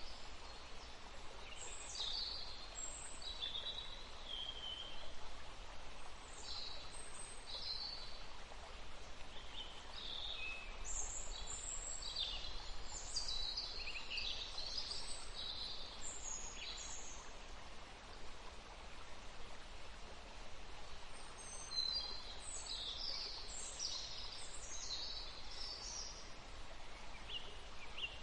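A forest stream running steadily, with songbirds singing over it in bursts of short, high chirps and trills, busiest in the middle and again past two-thirds of the way through.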